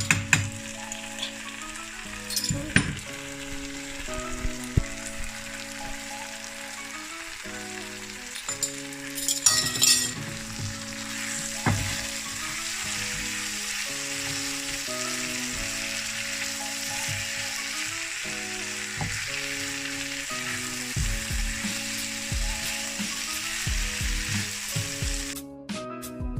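Chicken and vegetables stir-frying in sauce in a hot pan: a steady sizzle with a few sharp scrapes and clinks of the stirring utensil against the pan. The sizzle cuts off abruptly near the end. Soft background music plays underneath.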